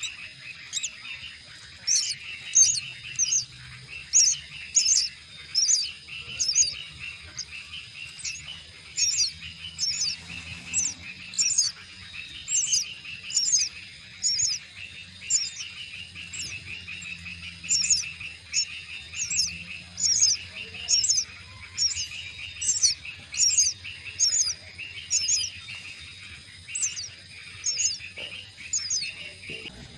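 A bird chirping: short, sharp, high notes that drop in pitch, repeated one or two a second with a few short pauses, over a steady high trill of insects.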